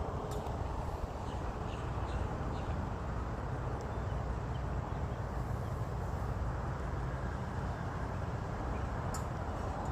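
Steady low rumbling outdoor background noise, with a few faint short high chirps or ticks scattered through it.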